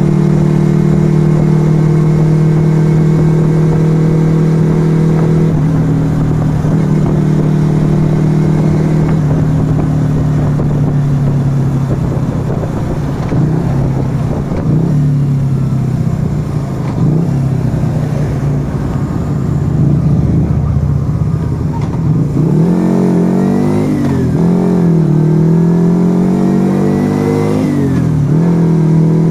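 Yamaha XV125 Virago's small V-twin running through a Turbo Kit aftermarket exhaust while riding. It holds a steady note for the first nine seconds or so, then drops lower and rougher under wind noise. In the last several seconds it revs up repeatedly, each rise cut by a short dip as the gears are shifted.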